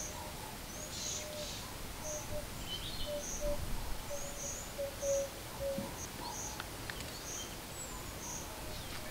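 Birds calling in the background: a short high note repeated about once a second, with a run of lower short notes in the middle.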